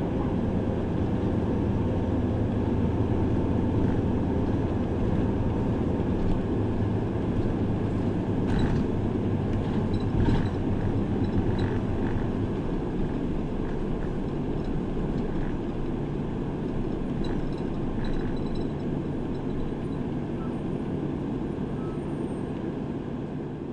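A city route bus's engine and road noise, heard from inside the cabin while driving, with a few rattles near the middle. The engine note drops about halfway through and the sound eases off gradually toward the end.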